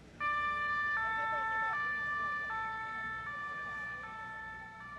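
Ambulance's two-tone siren alternating between a high and a low note, switching about every three-quarters of a second, and slowly getting quieter.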